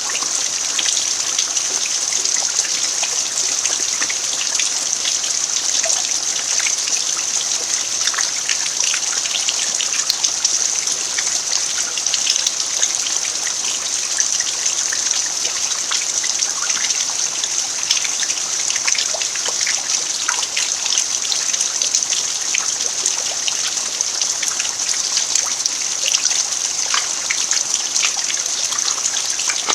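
Steady rain falling on an earthen yard: a constant hiss with many separate drop ticks scattered through it.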